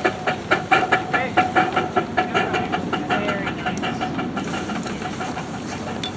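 1/8-scale ride-on train rolling past, its wheels clicking over the rail joints about four times a second; the clicking fades away after about four seconds, leaving a steady hiss.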